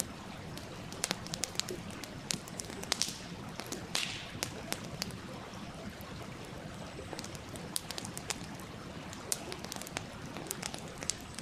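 Wood campfire crackling, with sharp irregular pops and snaps, over the steady rush of a small stream.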